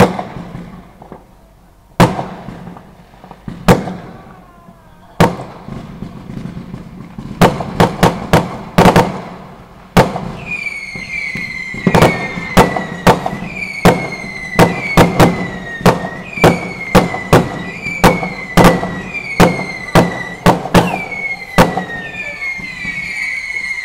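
Fireworks going off: sharp bangs, scattered at first and then coming thick and fast. From about ten seconds in, whistling fireworks join in, a steady string of whistles that each fall slightly in pitch over about a second, mixed with more bangs.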